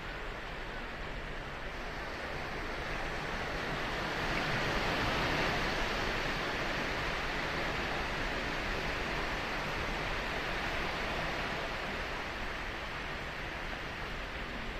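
Ocean surf washing onto a beach: a steady hiss of breaking waves that swells to its loudest about five seconds in and then slowly eases off.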